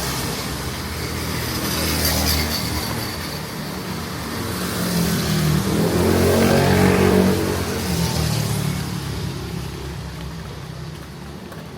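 Street traffic: a motor vehicle's engine passing close by, growing louder to about six or seven seconds in and then fading away.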